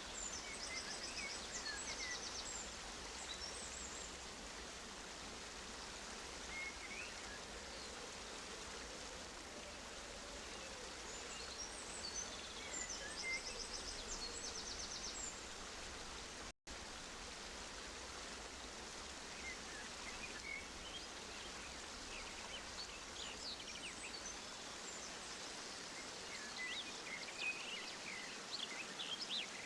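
Small aviary finches chirping and twittering in short, high calls, with a couple of quick trilled runs, over a steady rush of running water. The sound drops out for an instant about halfway through.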